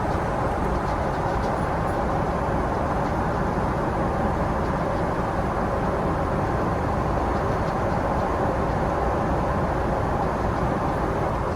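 Steady rumbling, rushing noise inside the cabin of a moving vehicle, even and unbroken throughout.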